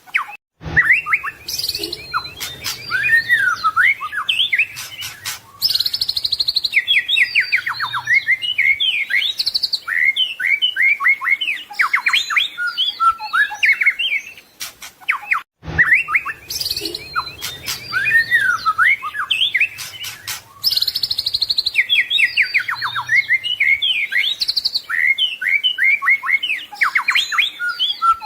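White-rumped shama (murai batu) singing a fast, varied song of whistles, trills and chirps. The same stretch of song plays again after about fifteen seconds, a looped recording of the kind used to train captive songbirds.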